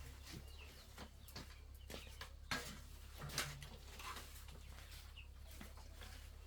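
Birds calling faintly, with scattered short knocks over a steady low hum; two sharper knocks stand out about halfway through.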